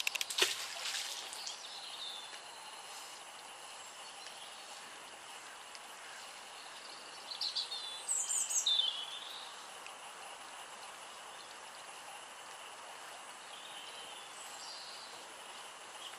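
Small birds chirping in short bursts, loudest about seven to nine seconds in, over a steady outdoor background hiss. About half a second in there is one brief sharp sound.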